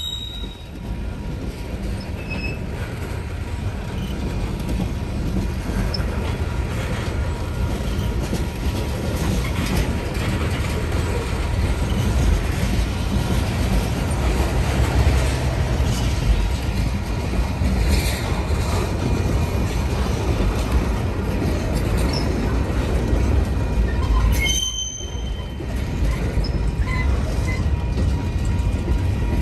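Freight cars of a passing manifest train, tank cars and covered hoppers, rolling steadily by on the rails: a continuous low rumble of wheels on track, with faint thin wheel-squeal tones above it.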